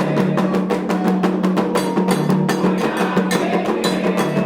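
Candomblé ritual drumming: atabaque hand drums playing a fast, steady rhythm with sharp struck accents.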